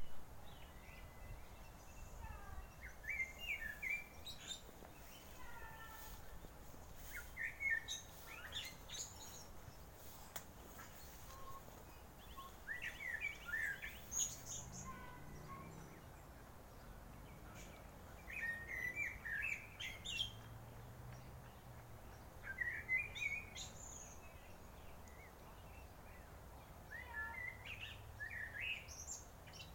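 Tui singing: short, varied phrases of quick rising and falling notes and clicks, repeated every few seconds with pauses between.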